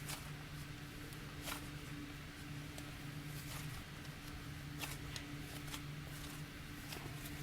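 Slime with sprinkles mixed in being squeezed and worked by hand, giving scattered short wet clicks and squishes, over a steady low hum.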